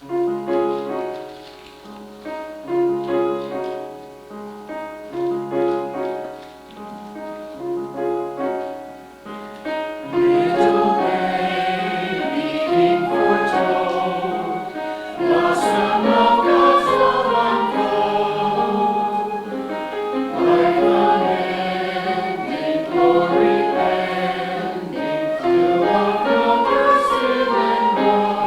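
A church choir singing a Christmas piece with accompaniment. The music starts with an instrumental introduction of repeated notes, and the choir comes in fuller and louder about ten seconds in.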